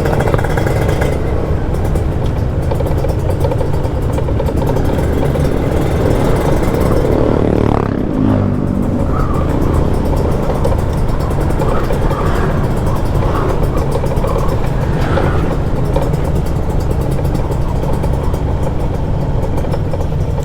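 Kawasaki Ninja 150 RR's single-cylinder two-stroke engine running steadily under way.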